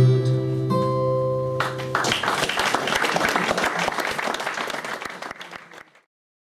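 The last guitar chord of a song rings out, then an audience claps for about four seconds, dying away before the sound cuts off.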